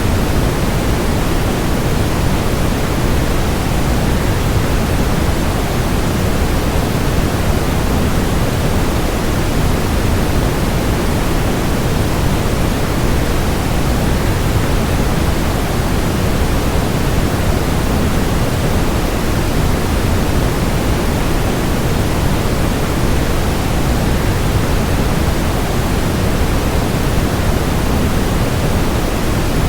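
Steady rush of waterfall sound blended with white noise, even and unchanging, heavier in the low end than in the high.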